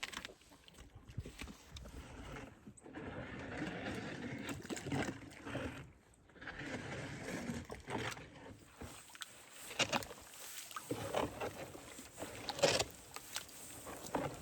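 A farm animal chewing and crunching an apple, with irregular wet crunches and clicks.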